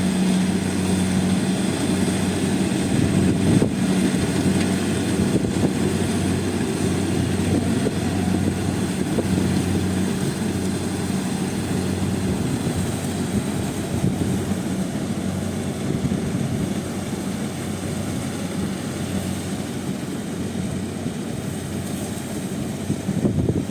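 Rice combine harvester running steadily as it cuts, a constant engine hum under a dense mechanical rush. It eases slightly in level about halfway through.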